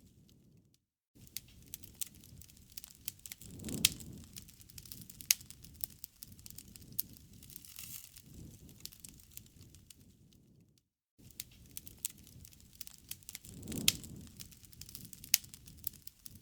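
Wood campfire crackling and popping, with sharp snaps over a low rumble of burning. The loudest pops come about four seconds in and again near the end. The sound drops out completely for a moment twice, about a second in and about eleven seconds in.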